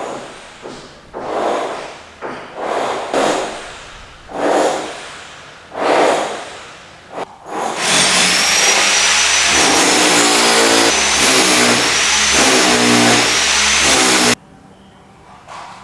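A handheld power tool running under load for several seconds, with a high steady whine over a coarse rushing noise, then cutting off sharply. Before it, a run of separate rasping strokes about a second apart.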